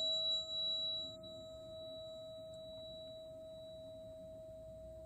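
A heart-center tuning fork rings after being struck, one steady pure tone slowly fading. A higher, brighter overtone dies away about a second in.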